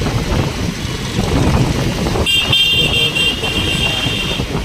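Road traffic rumble from a moving vehicle, with a vehicle horn honking for about two seconds from about halfway through.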